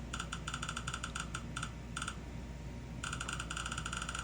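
Rapid series of short, sharp clicks: several a second for about two seconds, a pause of about a second, then a faster, even run of clicks.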